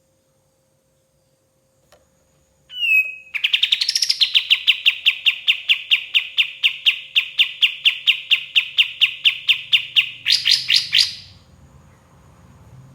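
White-shouldered triller (kapas tembak) singing. After a short falling note it gives one long, rapid trill of evenly repeated notes, about seven a second, for some seven seconds. The trill ends in a brief higher flourish.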